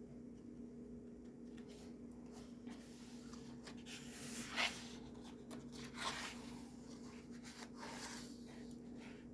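Paper pages of a colouring book being turned and handled, with two louder page-turn swishes about four and a half and six seconds in, over a faint steady hum.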